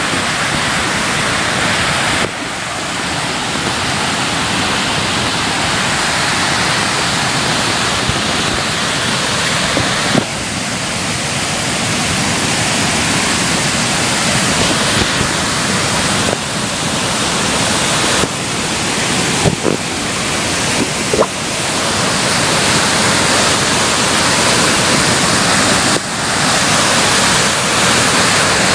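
Flood-swollen waterfall and whitewater rushing loudly and steadily: a river in spate from hurricane rains, with a few brief dips in level.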